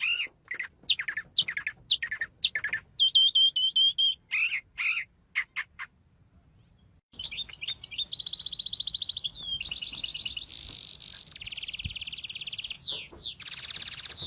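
Bird calling: a run of short, sharply falling chirps, a brief pause about six seconds in, then long rapid trills and buzzy rattling calls, some sweeping down in pitch.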